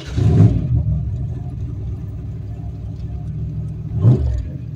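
Turbocharged 351 Windsor V8 in a Fox-body Mustang, heard from inside the car: a steady low rumble, revved once at the start and blipped again about four seconds in.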